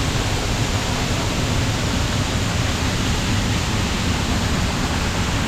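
Waterfall's steady rush of falling water, an even, unbroken wash of sound.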